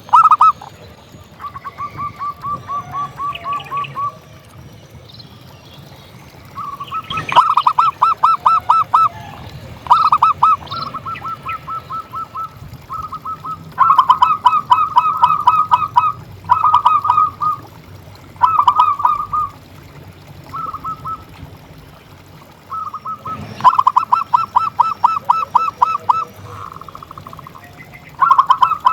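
Zebra doves (perkutut) calling: bouts of fast, evenly repeated staccato notes, one after another, some loud and some fainter.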